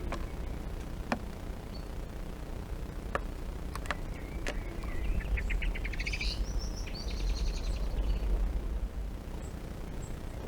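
A small songbird singing one fast trill of rapidly repeated notes about halfway through, over a steady low background rumble and a few faint ticks.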